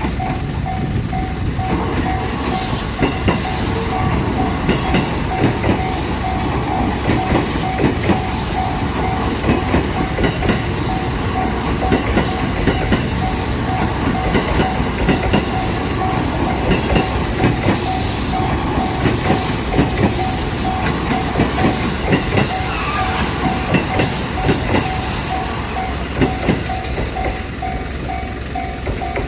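A Japanese level crossing's warning bell dings in a quick, even repeat throughout. A Jōban Line train passes over the crossing from about two seconds in, its wheels clattering over the rail joints, and the train noise fades out near the end while the bell keeps ringing.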